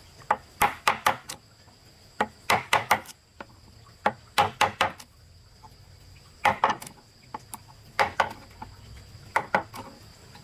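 Tool blows on wood, coming in quick bursts of three or four strikes, a burst every second or two. A steady high insect drone runs underneath.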